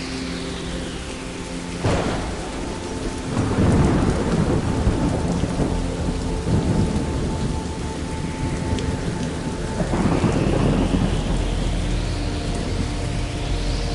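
Thunderstorm: steady rain with a sharp crack of thunder about two seconds in, followed by a long rolling rumble, and a second rumble of thunder later on.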